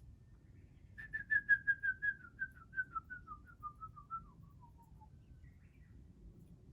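A bird's whistled call: a run of about twenty short notes that drop steadily in pitch over some four seconds and trail off. A second, shorter run starts near the end.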